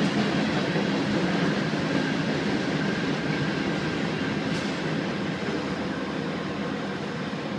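Herzog ballast train's cars rolling past on the rails with a steady rumble, slowly growing quieter as the train moves away.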